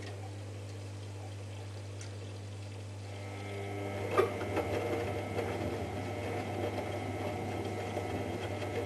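Privileg Ergonomic 1600 S washing machine running with water in the drum, its drum bearing badly damaged. Over a steady low hum, the sound of the machine grows louder and busier about three seconds in, with a sharp knock a second later.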